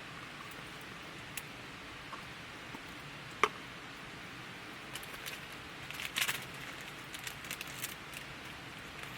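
Wood campfire crackling over a steady hiss, with one sharp pop about three and a half seconds in and a run of smaller crackles a few seconds later.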